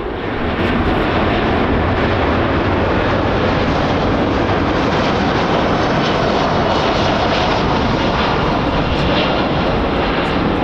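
Jet airliner engines, a loud steady roar of engine noise that jumps up about half a second in and then holds.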